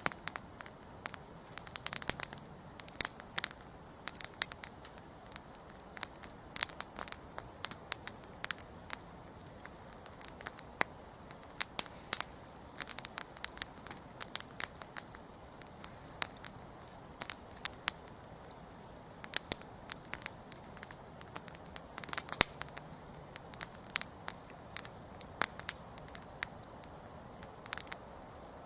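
Wood campfire crackling and popping: irregular sharp snaps, sometimes in quick clusters, over a soft steady hiss of burning.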